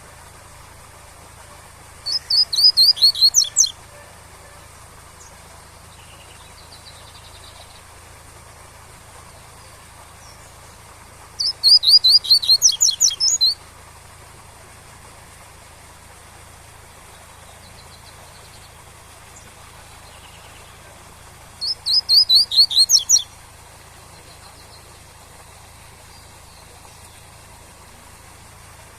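Double-collared seedeater (coleiro) singing its tui-tui song: three short phrases of quick, repeated high notes, about ten seconds apart, over a faint steady waterfall hiss.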